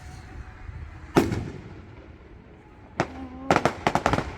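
Fireworks going off: a single bang a little over a second in, then a quick run of sharp cracks and bangs in the last second and a half.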